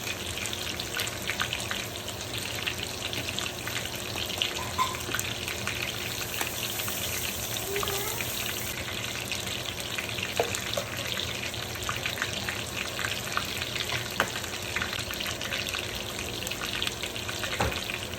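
Food frying in hot oil in a pan, a steady sizzle with scattered crackles and a few light knocks.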